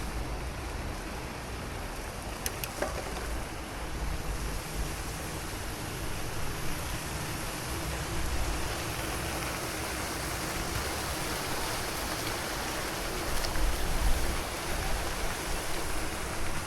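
Steady, even hiss of seaside ambience, the wash of the sea and the breeze along the promenade, with a couple of faint ticks a few seconds in.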